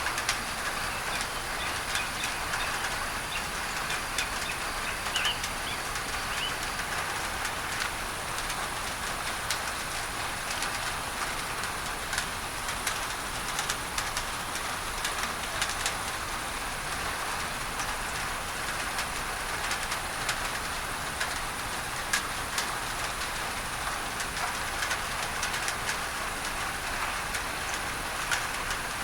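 Steady rain on a tin roof, with many individual drops ticking on the metal, mixed with an even hiss of added masking noise. A few faint bird chirps sound in the first several seconds.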